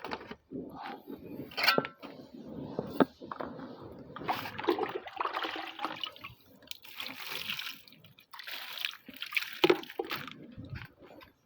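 Water sloshing and splashing in irregular bursts as a spotted dove is bathed, with scattered small clicks and knocks.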